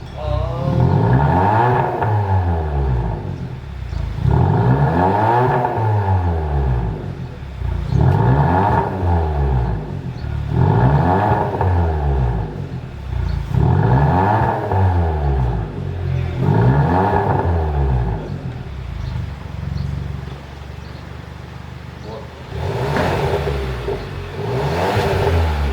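Kia K5 1.6-litre turbo four-cylinder through a cat-back dual valved exhaust, revved about six times, each rev rising and falling over a couple of seconds. It then idles steadily for a few seconds before two quick blips near the end.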